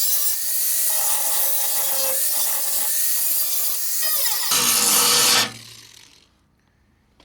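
Grinder grinding down a fresh MIG weld on a steel car fender: a steady, loud grinding hiss with a wavering whine. About five and a half seconds in, the grinding stops and the motor winds down to near silence.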